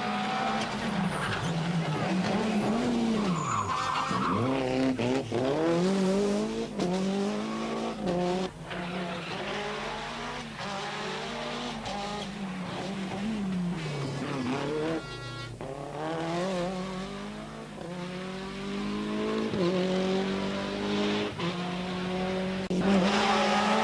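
Nissan Pulsar GTI-R rally car's turbocharged 2.0-litre four-cylinder engine pulling hard on a stage, its pitch climbing through each gear and falling back on shifts and lifts several times over.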